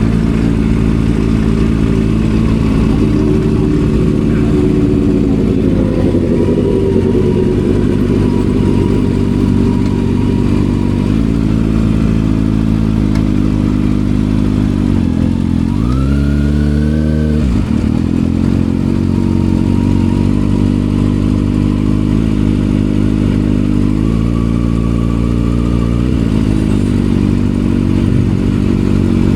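Kawasaki ZX-6R inline-four with an M4 aftermarket exhaust running steadily at low revs. It gives one quick rev that rises and falls about sixteen seconds in.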